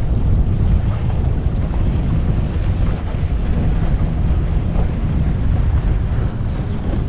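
Wind buffeting the microphone on an open boat: a loud, steady, low rumbling roar.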